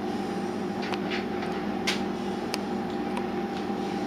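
Steady mechanical hum of a running kitchen appliance or fan, with a few light clicks and taps scattered through it, about five in all.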